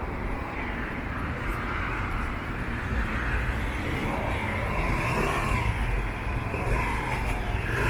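City street traffic: cars driving past with a steady rumble of engines and tyre noise that swells and fades as vehicles go by.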